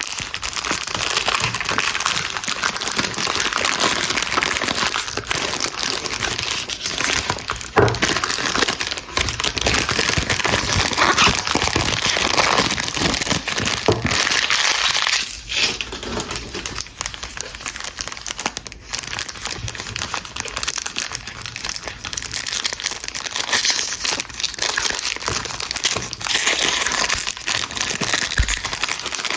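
Soap packaging being unwrapped by hand: a dense, continuous crinkling of wrappers with scattered sharp crackles and clicks.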